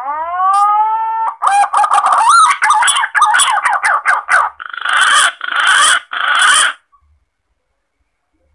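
Green pigeon (punai) lure call. It opens with a rising whistled note, runs into a fast string of warbling, gliding notes, and ends with three harsh, rasping bursts before stopping about two-thirds of the way in.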